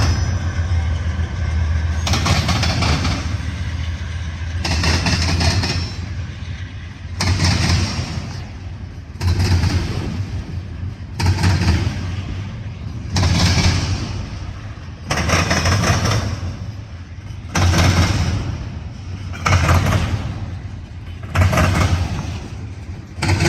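Freight train rolling past with its wheels clattering over the track, in a loud surge that starts sharply about every two seconds and fades between.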